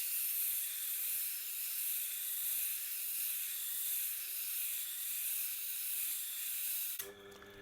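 Tormek T8 wet grindstone turning while an 80-grit diamond grading plate is held against it to coarsen the stone: a steady gritty hiss over a faint motor hum. It cuts off suddenly near the end.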